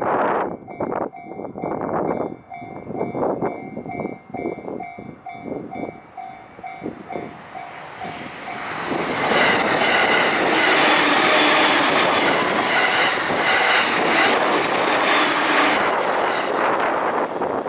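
Train wheels clacking over the rail joints at a level crossing, the clacks thinning out over the first seven seconds while the crossing's warning bell rings in even pulses. About eight seconds in, a second train passes, louder and denser, with a steady rush and clatter, and dies away near the end.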